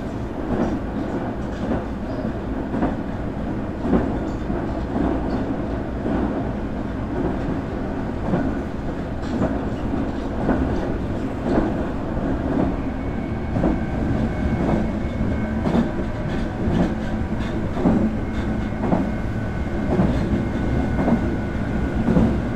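Nankai 8300 series electric train heard from inside the car while running: a steady rumble with wheels knocking over rail joints. About halfway through, a faint steady high whine from the VVVF-inverter-driven traction motors comes in.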